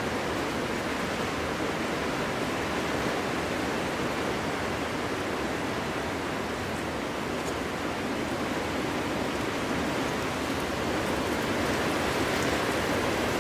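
Wind blowing steadily: an even rushing noise that grows a little louder near the end.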